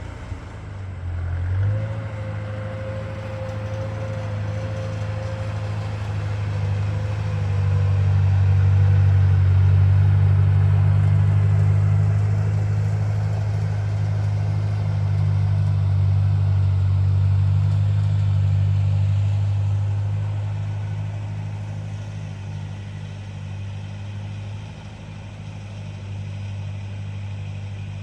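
Old Ford tractor engine running under load, revving up about two seconds in and loudest through the middle, then easing back after about twenty seconds, as it tries to pull a stuck drag scraper.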